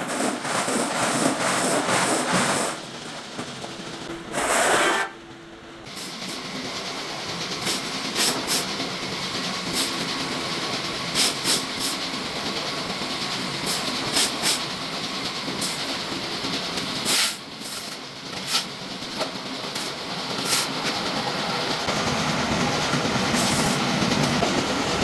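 Workshop metalworking machinery running, a steady mechanical hiss with irregular sharp clicks and clanks. It breaks off briefly about five seconds in, then carries on.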